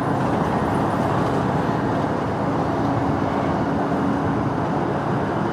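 Motorcycle in motion: a steady engine hum under a constant rush of road and ride noise.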